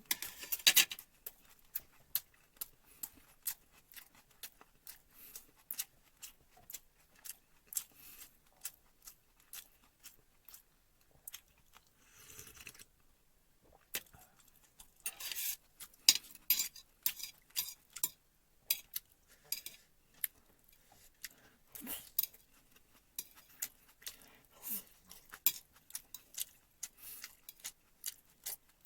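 Utensils clicking and clinking against a dish in quick irregular taps, mixed with crunchy chewing of fried chicken and vegetables.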